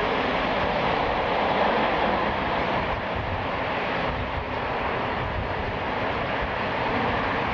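Boeing 767-300ER's twin jet engines running, a steady loud rush of noise with no clear change in pitch.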